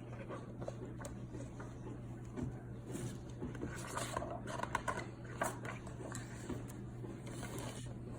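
Soft handling noises, scattered light clicks and short rustles, over a low steady hum.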